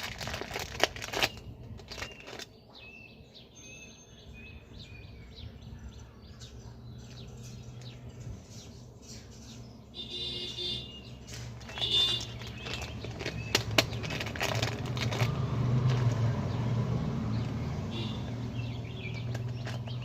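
Wood fire crackling with sharp pops, busiest at the start and again past the middle, over a low steady rumble that grows louder in the second half. A few short high bird chirps come through in the middle.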